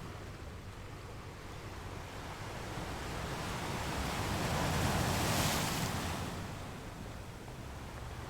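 Ocean waves on a shore: the surf swells over a few seconds to its loudest about five seconds in, then washes back and fades, over a steady low rumble.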